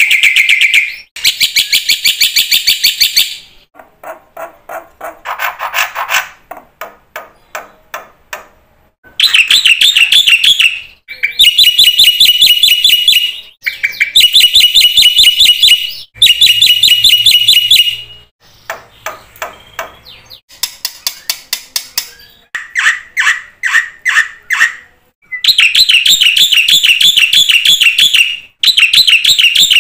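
Black-winged myna (jalak putih) singing a busy, varied song. It gives loud phrases of fast, rattling, chattering notes, each two to four seconds long, broken by short pauses and by softer, lower ticking runs.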